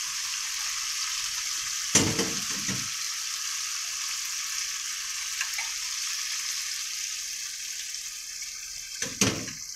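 Chicken-and-tomato karahi sizzling steadily in a karahi wok over a gas flame, with a sharp knock against the pan about two seconds in and a few more clatters near the end as green chillies and ginger are added and stirred in.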